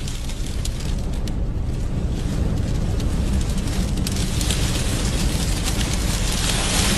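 Strong wind of a dust storm buffeting the microphone: a steady low rumble with a hiss that grows louder about four seconds in.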